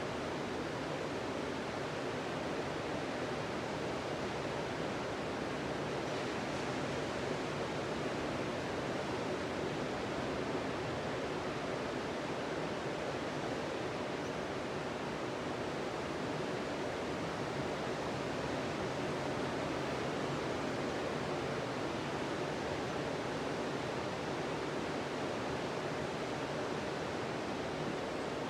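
Sea surf on a beach: a steady, even rush of waves with no single breaker standing out.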